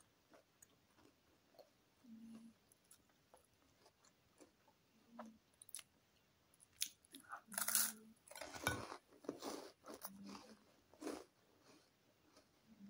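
A person biting and chewing a crisp cheese twist stick: small mouth clicks at first, then crunchy chewing from about halfway through, loudest a little after the bite.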